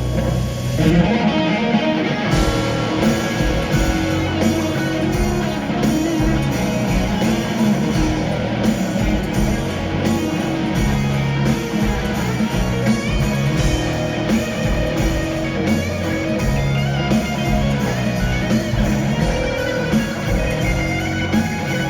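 Live electric guitar solo, played loud over a band backing with a steady beat.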